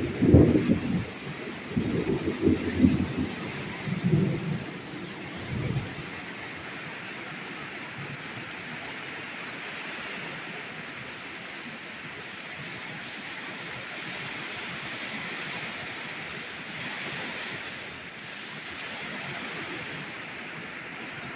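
Torrential rain falling steadily in a summer thunderstorm, with a rumble of thunder in the first six seconds, peaking several times before dying away.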